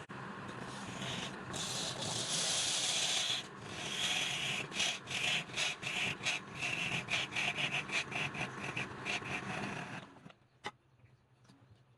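Hand abrasive work on wood: a steady scraping hiss, then quick back-and-forth strokes, about three or four a second, that stop suddenly near the end.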